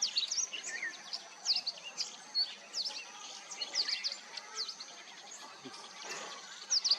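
Several small birds chirping together: many short, quick high notes, often overlapping, over a faint steady high hiss.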